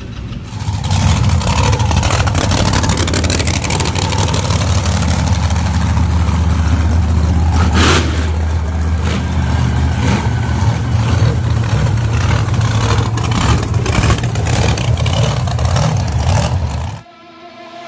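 Truck engine running loud and hard under steady throttle, a deep drone with many sharp crackles through it; it cuts off suddenly near the end.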